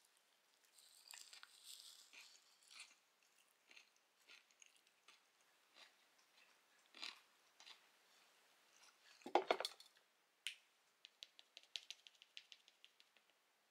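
Faint, close-up sounds of crunchy food being bitten and chewed, with a louder knock about nine seconds in and a quick run of small clicks near the end.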